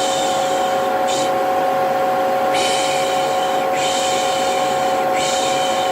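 Vacuum cleaner motor running steadily with a constant whine, while a voice makes repeated hushing 'shh' sounds, the kind used to soothe a baby. There are about four shushes, the longest lasting over a second, with short gaps between them.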